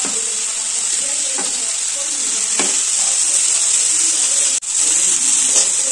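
Fish, garlic and ginger sizzling steadily in hot oil in a kadai, while a metal spatula stirs, scraping and tapping against the pan a few times.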